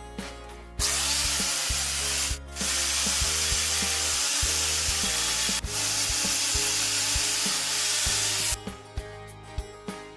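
A power tool working wood runs loud and steady. It starts about a second in, breaks off briefly, then runs about six seconds more before stopping, over background music with a steady bass line.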